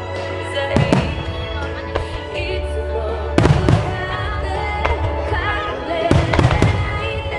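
Fireworks from a music-synchronised starmine barrage bursting with sharp bangs over music from loudspeakers. The bangs come in groups: about a second in, around three and a half seconds in, and again about six seconds in.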